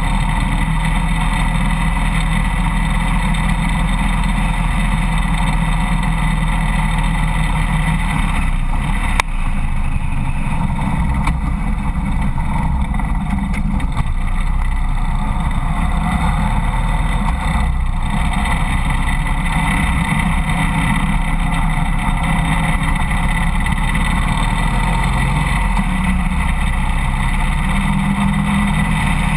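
Harley-Davidson Road King motorcycle under way, its V-twin engine running steadily beneath road and wind noise picked up by a camera mounted low by the front wheel.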